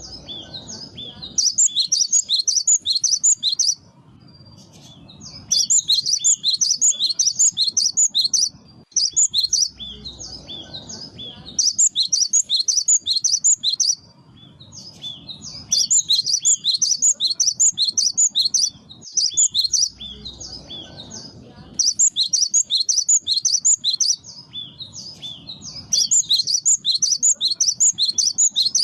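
Cinereous tit (gelatik batu) singing: phrases of rapid, high, repeated notes, each about two to three seconds long, recurring every three to four seconds with short pauses between.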